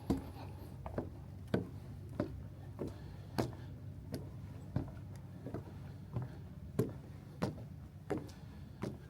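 Footsteps walking on a boardwalk: evenly spaced short knocks, about one and a half a second, at a steady walking pace.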